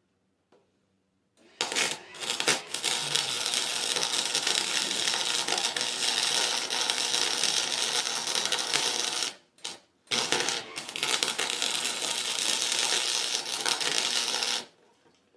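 Wire-feed welder laying two beads while the mower's differential is welded solid: a loud steady crackle for about eight seconds, a brief stop, then about four seconds more.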